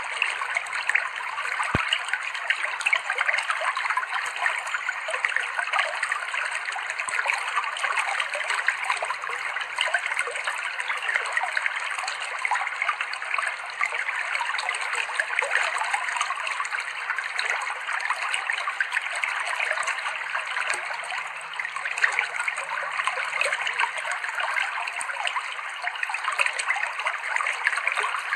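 Clear, cold stream water flowing and babbling over rocks, a steady, dense rush of small splashes.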